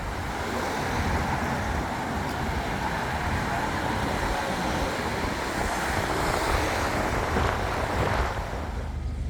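A motor vehicle driving: a steady rush of road and tyre noise over a low engine rumble, which eases off about a second before the end.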